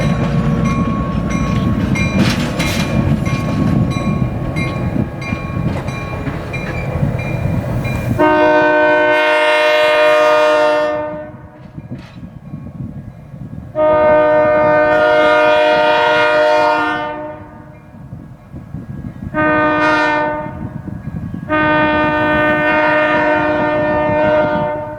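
EMD GP-7 diesel locomotive running, then its air horn sounding the grade-crossing signal from about eight seconds in: two long blasts, a short one, and a final long one.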